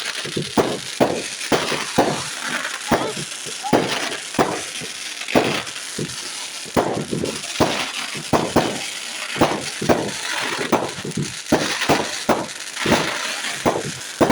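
Fireworks going off in a rapid, irregular barrage of bangs and crackles, several a second, with a brief whistle about four seconds in.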